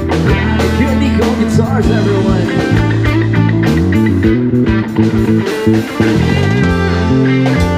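Live band playing a rock song: electric guitar over bass guitar and drums, with steady drum beats throughout.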